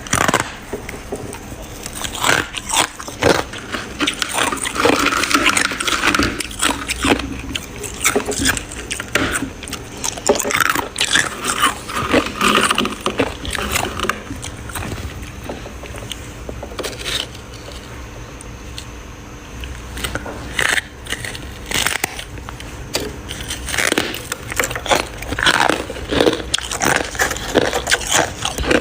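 Freezer frost being bitten and chewed: crisp, irregular crunches in quick clusters with quieter chewing in between.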